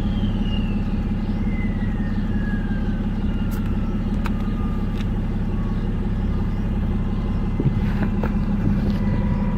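BMW 535d's twin-turbo straight-six diesel idling steadily through an exhaust with no catalytic converter and no DPF. A faint high whistle falls slowly in pitch over the first several seconds, with a few light clicks.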